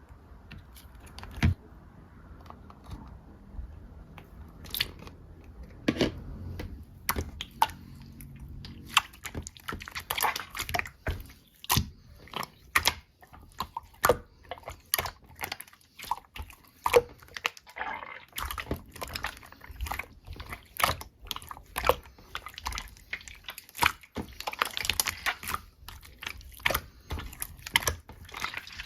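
Slime being pressed and squished by hand, giving sharp crackling clicks and pops from trapped air bubbles. The clicks are sparse at first and come several a second from about nine seconds in.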